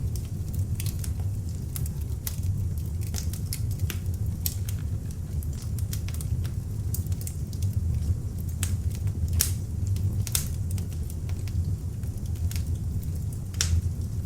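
Beech logs burning in an open fireplace: a steady low rumble of flame under frequent, irregular sharp crackles and pops from the burning wood.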